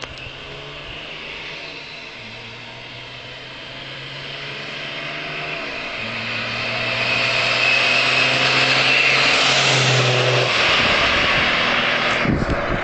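Volvo 760 Turbo Diesel's straight-six turbodiesel, tuned with a turned-up injection pump and about 1 bar of boost, running under load and getting louder, with a high turbo whistle over the engine note at its loudest. The engine note drops away about ten and a half seconds in, leaving wind noise.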